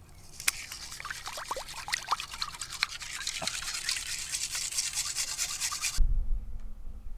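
Gravel and water being swirled and scraped in a gold pan, with gritty rubbing and water dripping and splashing. It cuts off suddenly about six seconds in to a low wind rumble on the microphone.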